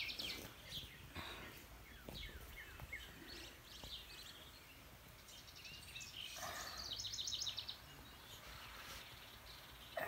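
Faint bird chirps: a few short high calls in the first few seconds and a quick high trill about seven seconds in, over steady outdoor background noise.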